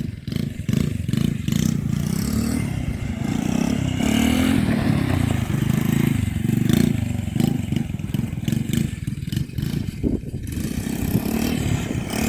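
Small carburetted engine of an RC quad bike running while it drives, its note rising and falling with the throttle, with some scraping and clatter from the wheels on the ground.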